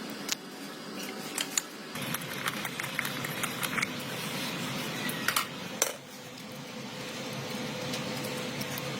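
Small metal parts and hand tools clinking and clattering against each other, with a few sharper knocks.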